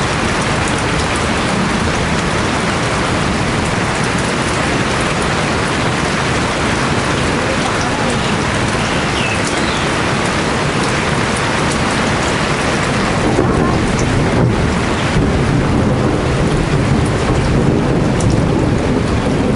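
Heavy tropical rain falling in a steady downpour. About two-thirds of the way in, a low rumble of thunder swells beneath it.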